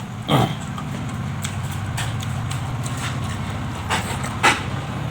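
Close-miked eating sounds: chewing and mouth clicks over a steady low hum, with two louder smacks, one shortly after the start and one near the end.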